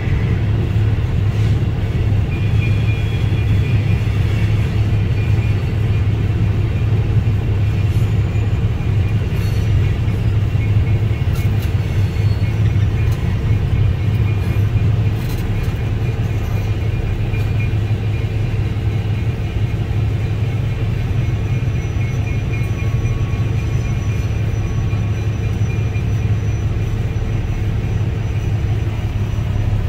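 Steady low rumble heard from inside a stopped vehicle's cab as a freight train rolls slowly through a grade crossing ahead. A faint high-pitched ringing tone runs through most of it and drops away near the end.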